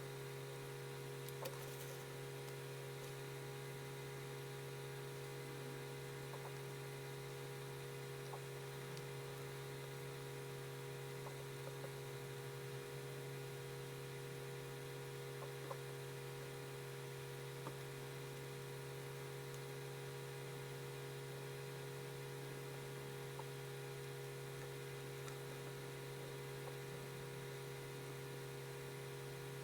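Steady electrical hum over a faint hiss, with a few faint, scattered ticks.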